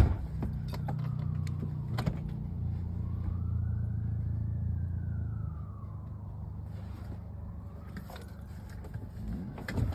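A vehicle engine idling with a steady low hum, with a sharp knock right at the start and another about two seconds in. A faint tone slowly rises and falls twice, like a siren wailing.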